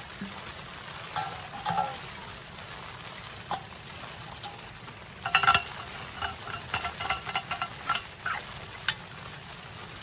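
A metal utensil clinking and scraping against a metal pot, as in stirring. There are scattered clinks, a burst about halfway through and a quick run after it, over a steady hiss.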